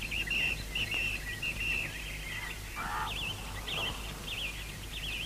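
Birds chirping: a string of short, high chirps and quick warbling calls over a faint, steady low hum.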